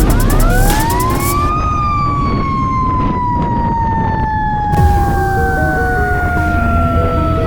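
Siren wailing: it winds up over about a second and a half, then slowly falls in pitch for several seconds before starting to climb again near the end.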